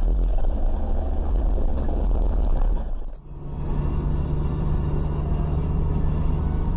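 Vehicle engine and road rumble. About three seconds in it breaks off and gives way to another steady engine hum.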